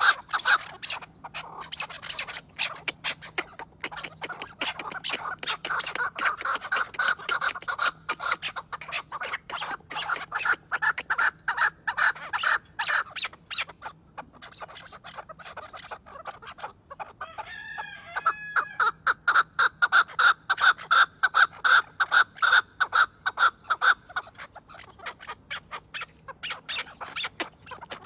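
Chukar partridges calling in a rapid, continuous run of short chuck notes, with a brief lull about halfway through.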